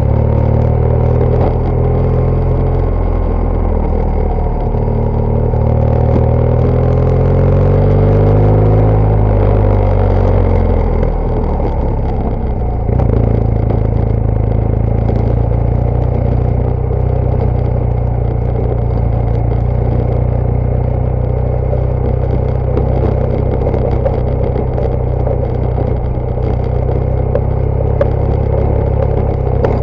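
BMW GS Adventure motorcycle's boxer-twin engine running under way off road, its pitch climbing over the first several seconds and then holding steady, with light clatter throughout.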